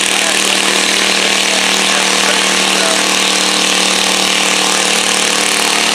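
Pulling garden tractor's engine running loud and steady, holding one pitch with no revving up or down.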